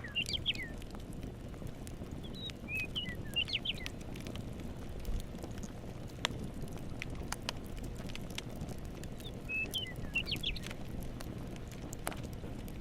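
Campfire crackling with scattered sharp pops over a low steady hiss, while a songbird sings a short run of quick chirps twice, about seven seconds apart.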